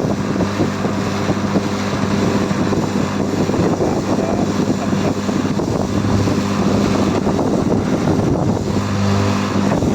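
Air-conditioner outdoor unit running, newly switched through a replacement magnetic contactor: a steady compressor hum under the rush of its fan.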